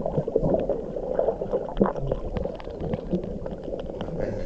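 Underwater gurgling and bubbling picked up by a submerged camera on a coral reef, with many scattered sharp clicks.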